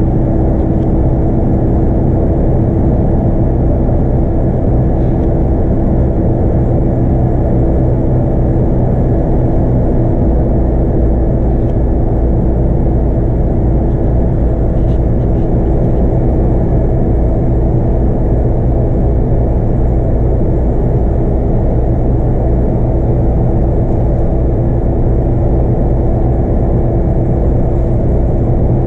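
Scania K230UB bus's 8.9-litre five-cylinder DC9 diesel and ZF Ecomat automatic running at a steady speed, heard from inside the bus: a constant drone with road noise and a steady tone over it, with no gear changes.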